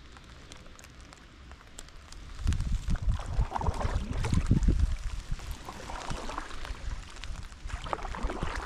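Wind buffeting the microphone in gusts from about two and a half seconds in, over splashing water.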